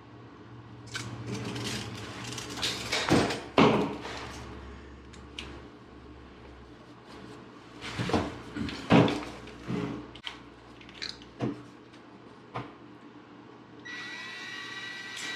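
Plastic drain pipe and fittings knocking and clacking as they are handled and pushed together in a dry fit. Near the end, the motor of Milwaukee M12 battery plastic pipe shears starts with a rising whine.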